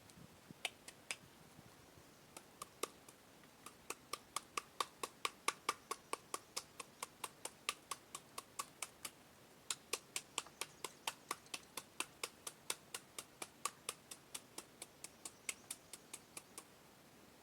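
Rhythmic sharp knocks from preparing green papaya salad, about three a second, with a short break about nine seconds in.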